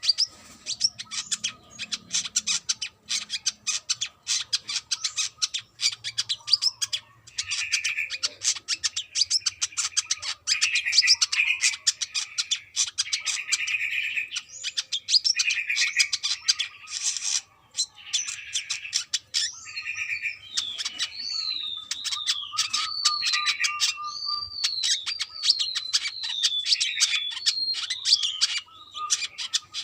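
Brown-throated sunbird (kolibri kelapa) singing busily: a fast stream of sharp chips with repeated buzzy trills. From about two-thirds of the way in come a string of quick down-slurred whistles.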